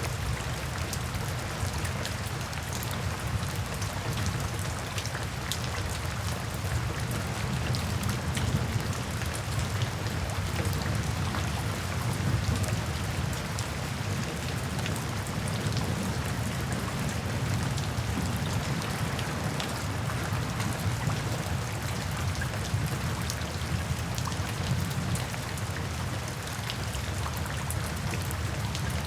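Steady rainfall with many small drop impacts, over a continuous deep low rumble.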